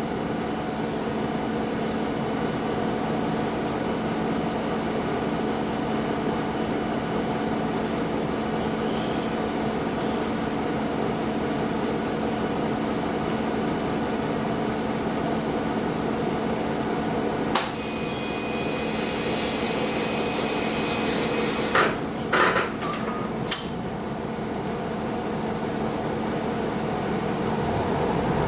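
Diesel railcar's engine idling steadily while stopped at a station. About two thirds of the way in, a click and a few seconds of compressed-air hiss are followed by a short cluster of knocks, as the doors close before departure.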